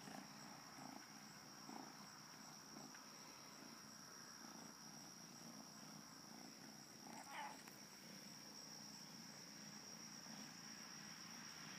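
Faint cat purring, with one short rising cry about seven seconds in.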